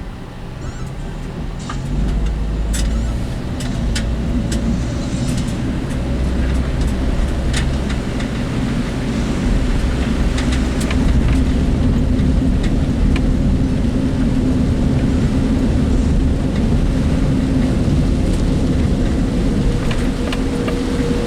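Work vehicle driving, heard from inside the cab: steady engine and road rumble that gets louder about two seconds in, with scattered clicking rattles from the vehicle itself.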